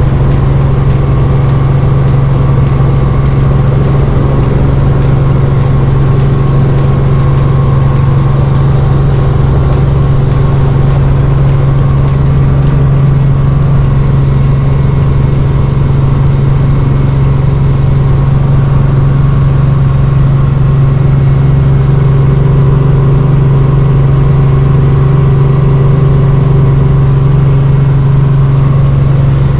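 Helicopter engine and rotors running, a loud, steady drone with a constant low hum that does not change in pitch.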